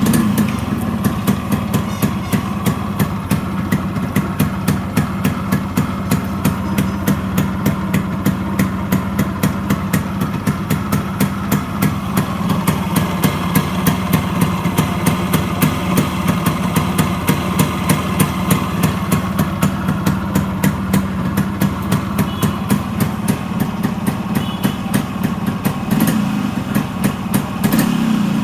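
Yamaha RX100's two-stroke single-cylinder engine firing up on a cold start and settling straight into a steady idle with an even, rapid exhaust beat.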